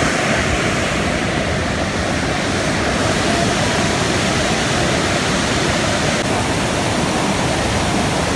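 Steady, unbroken rush of water plunging down Montmorency Falls, a 242-foot waterfall.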